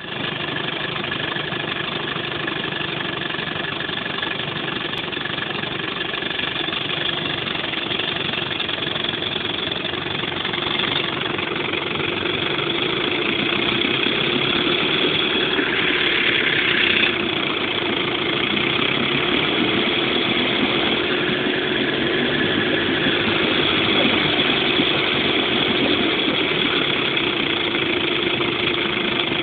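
1968 Johnson 20 hp long-shaft outboard's two-cylinder two-stroke engine idling steadily, getting a little louder about halfway through.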